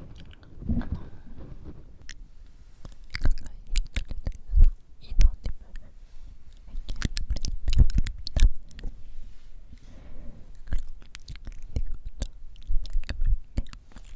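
Moist mouth sounds very close to the microphone: a quick run of wet clicks and smacks, with several heavy low puffs of breath blowing on the mic.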